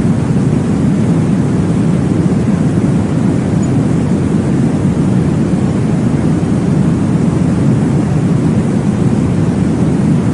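Steady, deep rushing noise, strongest in the low end and even throughout with no beat: a baby sleep-aid noise track imitating the whoosh of blood flow in the womb.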